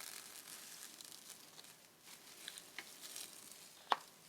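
Cling film being peeled slowly back off paper freshly glued down with matte medium: a faint crinkling rustle, with one sharp click near the end.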